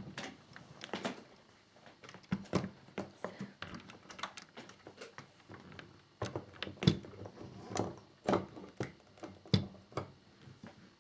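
Handling noise from a large scale-model motorcycle being lifted and set on its stand: irregular plastic clicks and knocks, with a few sharper knocks in the second half.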